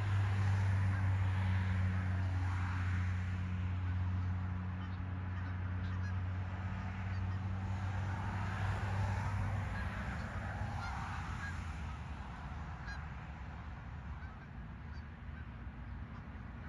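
Geese honking, over a steady low hum that fades out about ten seconds in.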